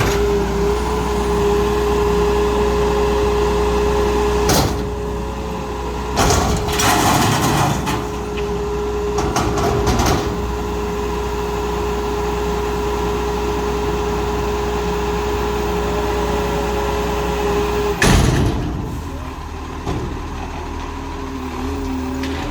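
Garbage truck running, with a steady whine that stops after a loud hiss about eighteen seconds in. Several shorter loud hisses and clunks come before it.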